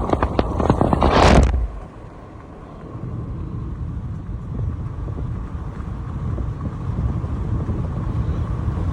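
Moving car's road noise: rapid clattering and a loud rushing whoosh that cuts off about a second and a half in, then a steady low rumble that slowly builds.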